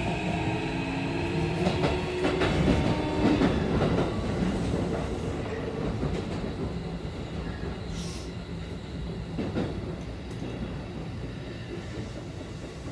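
Keikyu 1500 series train's Mitsubishi IGBT-VVVF traction inverter and motors heard from inside the car, a hum of several tones rising slowly in pitch as the train accelerates. The tones fade out about four seconds in. The train then runs on with rumbling wheel and rail noise and a few clicks over rail joints, growing slowly quieter.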